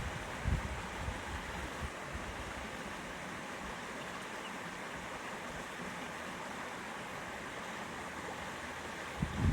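River water flowing steadily, a constant rushing hiss, with a few low thumps of wind or handling on the microphone in the first couple of seconds and again near the end.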